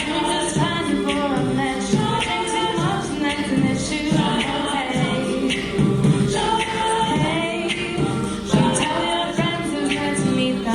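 A cappella vocal group singing in several parts, voices only, with a steady rhythmic pulse.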